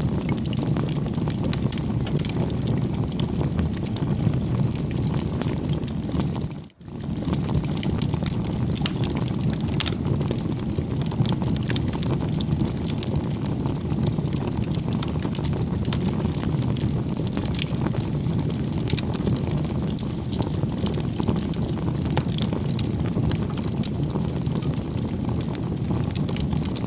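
Crackling wood fire: a steady low rush dotted with frequent small sharp pops and crackles, briefly cutting out about seven seconds in.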